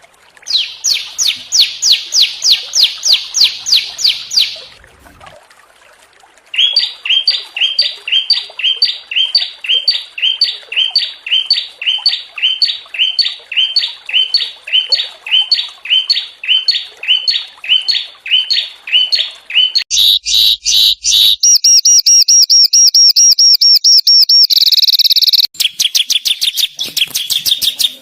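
Small songbirds singing loud, high-pitched phrases of rapidly repeated notes: a quick series, a short pause, then a long run of evenly repeated notes, followed near the end by fast clicking notes and a rapid trill.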